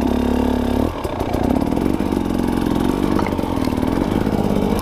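Dirt bike engine running under the rider, easing off about a second in and then picking up again with a wavering pitch.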